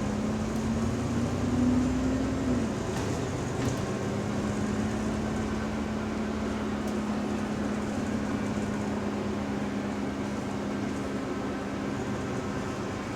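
Double-decker bus running, heard from inside the saloon: steady drivetrain noise with a thin whine that dips in pitch a couple of seconds in, then holds steady. This is the subtle, odd differential whine the bus is noted for.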